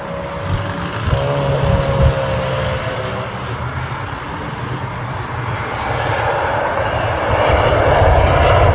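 Jet noise from a Learjet 35A's twin Garrett TFE731 turbofans, building into a louder rushing roar over the second half as the engines power up for takeoff.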